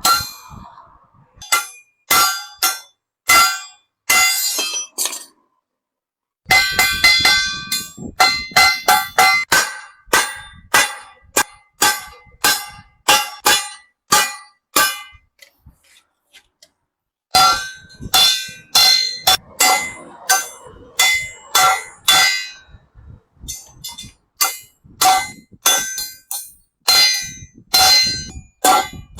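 Hand hammer striking sheet metal, each blow a ringing clang, about two blows a second in runs broken by two short pauses.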